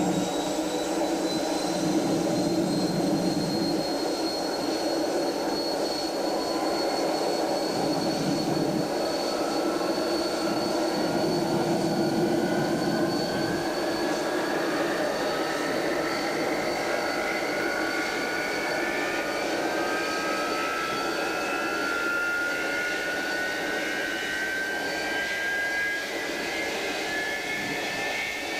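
Avro Vulcan B2's Bristol Olympus turbojet engines running on the ground: a steady high whine over a broad roar, joined from about a third of the way in by a second whine climbing slowly in pitch as an engine spools up.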